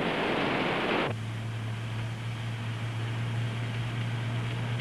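Rushing surf noise that cuts off abruptly about a second in. It gives way to the steady low hum of a car engine running, heard from inside the cabin.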